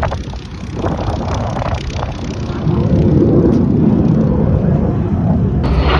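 Aircraft engine noise, a low rumble that swells louder about two and a half seconds in, with a sudden harsher hiss joining just before the end.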